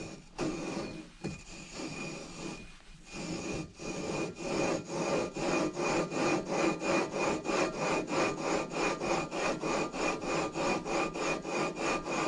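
Aluminium flywheel being lapped onto the crankshaft taper of a Predator 212 engine with lapping compound: a gritty, scraping rub as it is twisted back and forth on the taper. Irregular at first, it settles about three seconds in into an even rhythm of about three to four strokes a second.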